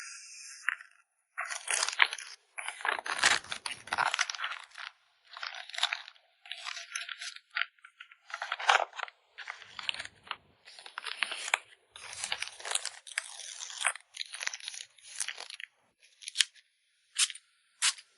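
Close-up rustling and crinkling of plastic packaging being handled while packing photocards, in irregular short bursts with brief pauses between them.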